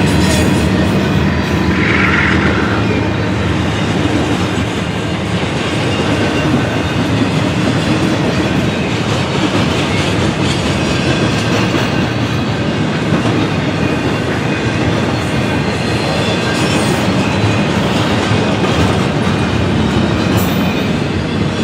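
Freight train of double-stack container cars rolling past close by, with a steady, loud rumble of wheels clacking over the rails. A brief high-pitched tone comes about two seconds in.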